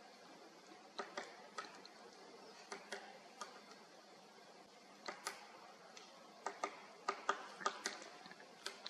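Great spotted woodpecker pecking at wood: about fifteen sharp, irregular taps, singly or in quick pairs with pauses between, louder in the second half.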